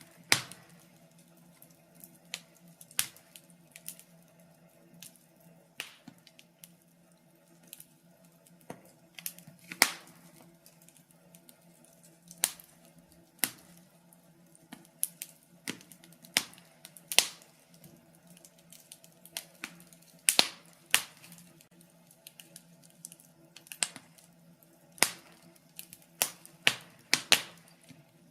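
Wood fire crackling in a fireplace: sharp, irregular pops and snaps, some in quick clusters, over a faint steady low hum.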